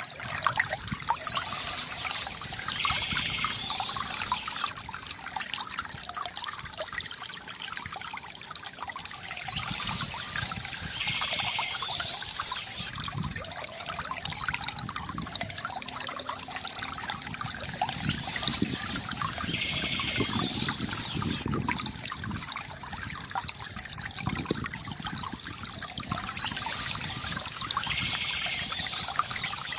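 Stream water trickling and splashing steadily. A bird sings a high phrase of a few seconds about every eight seconds, four times.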